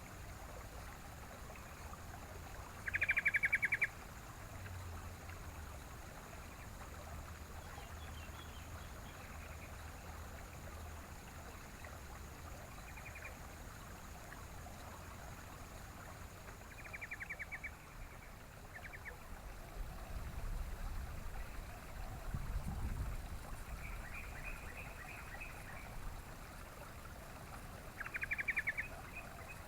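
Yellow-vented bulbul calling in short bursts of rapid, rattling notes, loudest about three seconds in and again near the end, over a steady hiss like running water. A low rumble comes about two-thirds of the way through.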